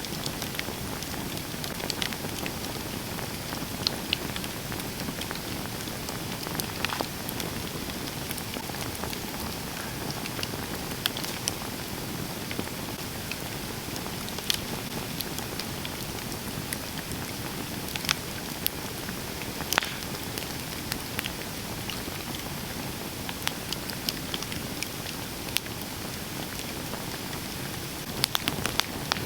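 Campfire burning: a steady hiss with scattered sharp crackles and pops, which come thicker near the end.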